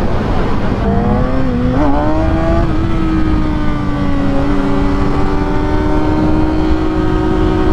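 600-class inline-four sport bike engine accelerating: its note rises from about a second in, dips briefly near two seconds, then holds a steady pitch while cruising, with heavy wind rush on the microphone.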